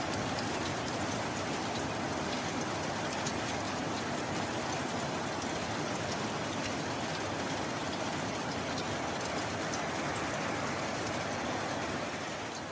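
Steady rain falling: an even hiss with scattered small drop ticks, easing slightly near the end.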